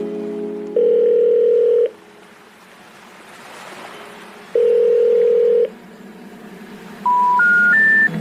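Telephone call-progress tones: two long ringback rings a few seconds apart, then three short rising beeps like the special information tone that comes before a 'number not in service' message.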